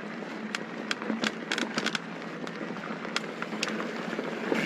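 Mountain bike rolling over a loose dirt fire road. The tyres give a steady hum, with irregular sharp clicks and rattles from gravel and the bike over rough ground, bunched about a second in.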